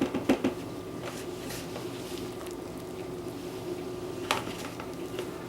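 Whipped soap base being scooped out with a utensil and moved into a bowl. A few quick clicks at the start and one sharp tap about four seconds in, over a steady low hum.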